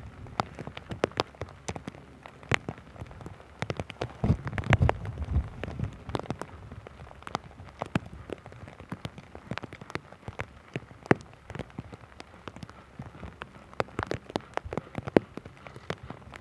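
Rain falling, with many scattered drops ticking irregularly close to the microphone and a brief low rumble about four to five seconds in.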